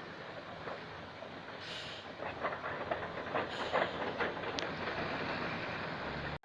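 Excavator at work loading soil into a dump truck: engine noise with repeated clattering knocks of metal and spilling earth, growing busier about two seconds in. The sound cuts off suddenly near the end.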